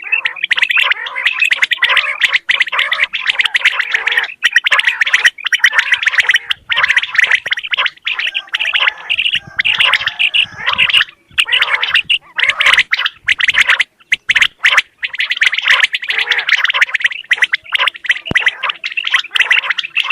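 Common quail calling: a dense, rapid chatter of calls, broken by short gaps, over a faint steady hum.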